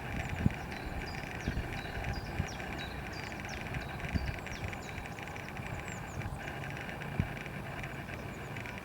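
Outdoor nature ambience: small birds chirping repeatedly in short high notes over a steady high hiss and a low rumble. A few short thumps cut in, the loudest about half a second in and another near seven seconds.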